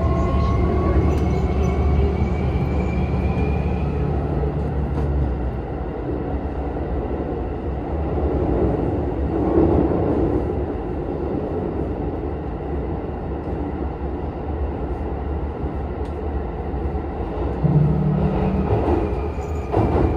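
Hankyu 2300 series electric train running through a tunnel, heard from inside the car. Over the first few seconds a motor whine rises in pitch as the train accelerates. The low hum then drops away about five seconds in, and the train runs on with a steady rumble of wheels on rail.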